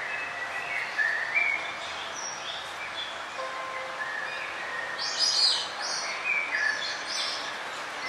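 Several birds chirping, short high notes from different birds over a steady background hiss, with a louder flurry of chirps about five seconds in.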